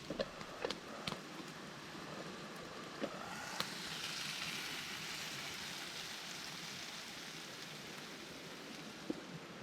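Rain falling on a tarp shelter. It swells to its loudest about four seconds in and slowly eases off, with a few sharp taps near the start.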